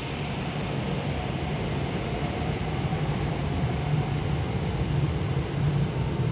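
Saitama Railway 2000 series electric train departing, a steady low rumble of wheels and traction motors in an underground station that grows slightly louder as it pulls out.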